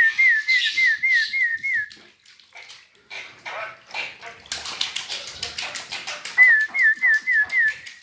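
A quick run of about seven identical short whistles, each a high note with a little hook, repeated again near the end: a whistled call to a pet starling. From about halfway on, a fast, dense series of sharp clicks or splashes runs underneath.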